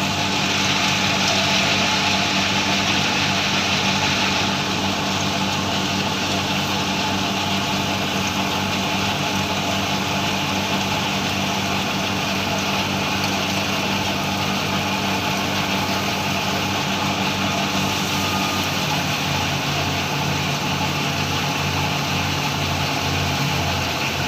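A large farm machine's engine running steadily, with a lower pulsing note joining near the end.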